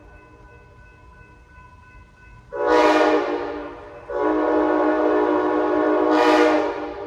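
Diesel locomotive's multi-chime air horn sounding two blasts, a shorter one about two and a half seconds in and a longer one right after it, following the fading end of an earlier blast.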